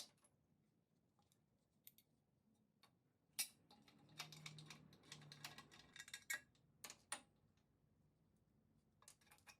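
Near silence broken by faint, scattered clicks and light taps, with a denser run of them in the middle.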